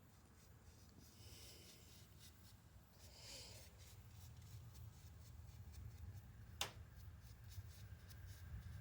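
Faint scratchy strokes of a paintbrush on concrete as paint is brushed on, with one sharp click about two-thirds of the way through.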